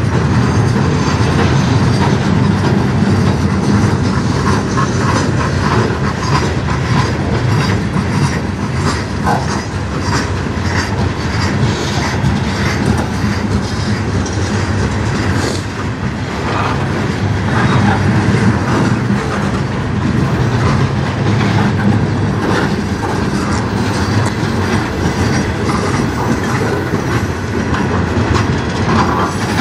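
Freight cars of a passing manifest train rolling by close at hand: steel wheels clattering steadily over rail joints, with now and then a brief wheel squeal.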